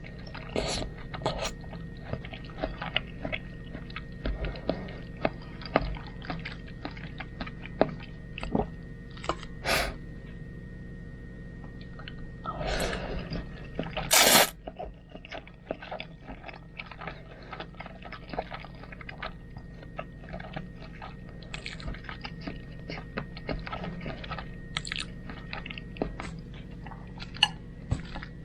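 Close-up eating sounds of a person eating spaghetti: chewing with wet mouth clicks and smacks, and a louder noisy sound about halfway through.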